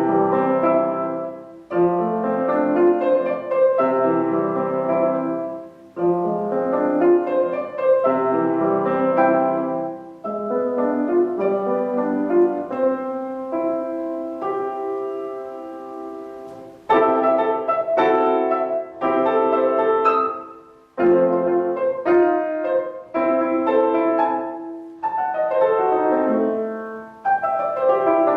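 Solo piano playing a short classical-style piece in phrases of a few seconds, with brief breaths between them. About halfway through the playing turns brighter and more detached.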